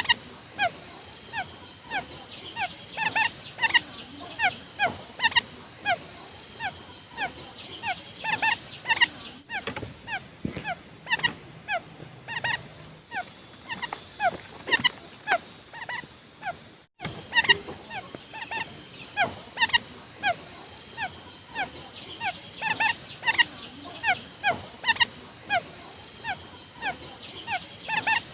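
Quail calling, used as a lure call: a rapid string of short, falling notes, several a second, with a steady high hiss underneath. The calling breaks off briefly about a third of the way in and again past the middle.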